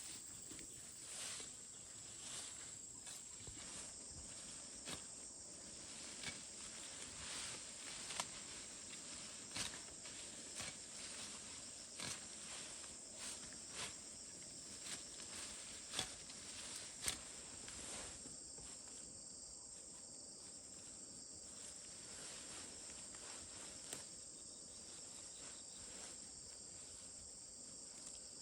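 Insects, crickets by the sound of it, chirring steadily in a high, thin band, with scattered sharp clicks and knocks over the top.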